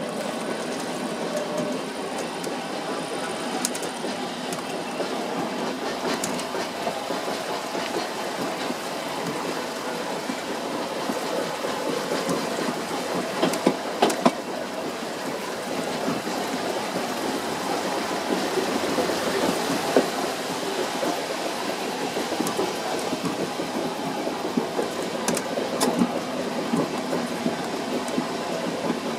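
Furka cogwheel steam train running along its rack-rail track: a steady clatter and rumble of the train in motion, with a few sharp clicks now and then.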